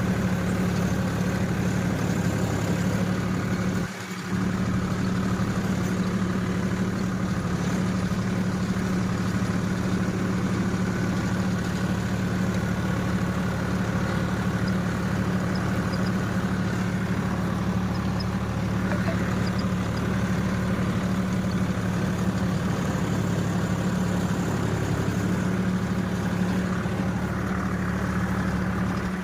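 Tractor engine running steadily at a low, even idle, with a brief dip in level about four seconds in.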